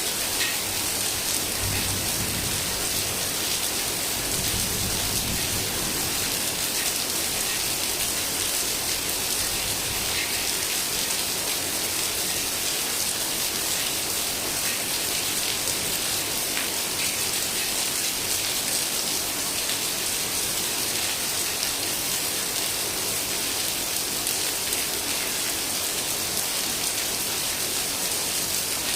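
Heavy rain falling steadily, a dense even hiss of drops on surfaces, with a brief low rumble about two seconds in.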